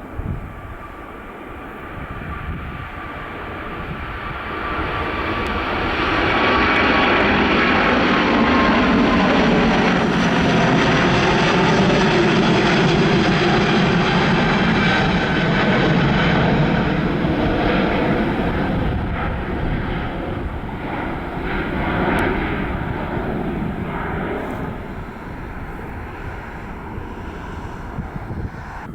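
Airliner engines passing: the noise builds over a few seconds, stays loud for about ten seconds with a steady whine, then fades away.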